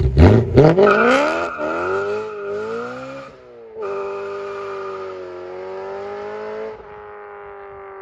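2011 BMW M3 (E92) 4.0-litre V8 with straight-piped exhaust, blipped up sharply a few times and then held at high revs, a brief drop near the middle, and a quieter steady note near the end.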